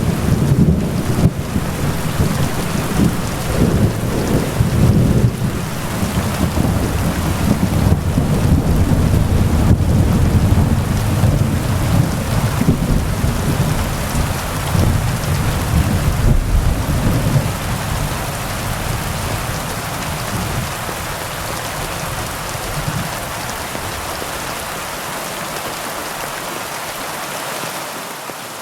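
Heavy rain falling steadily, with a long low rumble of thunder that rolls through the first part and slowly dies away.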